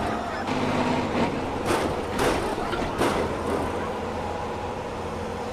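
Heavy diesel vehicle engine running steadily, with a few short sharp noises in the first three seconds.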